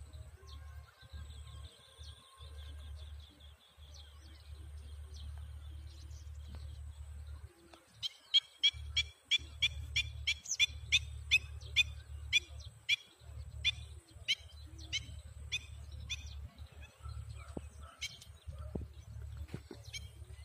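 A bird calling: a soft rapid trill at first, then from about eight seconds in a loud run of sharp, high repeated notes, about three a second, thinning out later. A low rumble comes and goes underneath.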